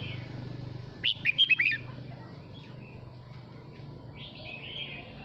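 Red-whiskered bulbul singing: a quick phrase of about five clear notes about a second in, then a fainter call near the end, over a low steady hum.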